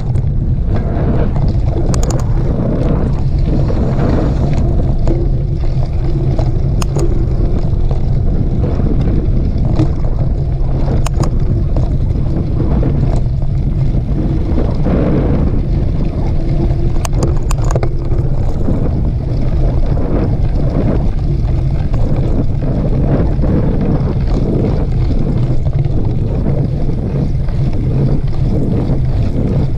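Heavy wind buffeting on a camera microphone as a mountain bike is ridden along a dirt trail, with scattered sharp clicks and rattles from the bike over the terrain.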